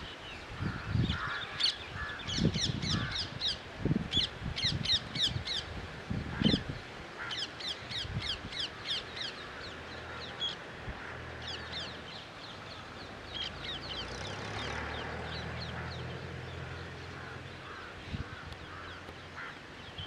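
Birds calling: quick runs of shrill, down-slurred notes in repeated bursts, busier in the first half, over a faint low hum.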